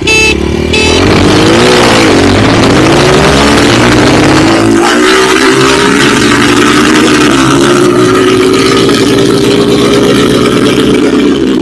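Enduro motorcycle engine under way: the revs rise and fall a few times in the first seconds as it pulls off, then hold a fairly steady, loud note for the rest of the ride.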